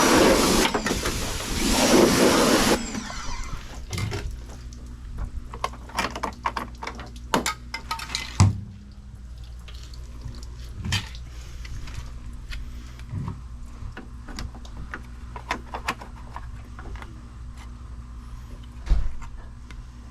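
Pressure washer spraying water, a loud hiss that stops about three seconds in. After it come scattered clicks and knocks over a steady low hum.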